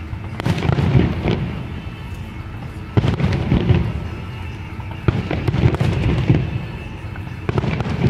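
Fireworks display: aerial shells bursting with deep booms and trailing crackle, a new volley about every two to two and a half seconds, four in all.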